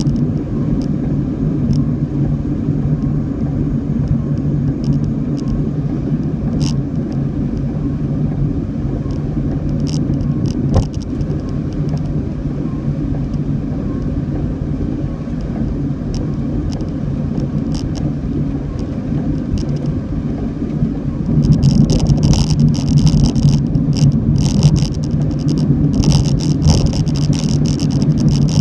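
Car on the move, a steady low rumble of engine and road noise. About 21 seconds in, a dense crackling hiss joins it and keeps on.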